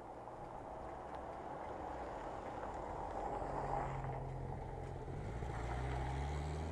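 A motorcycle engine over wind and road noise, getting steadily louder. About halfway through its low engine note comes in clearly and rises in pitch near the end.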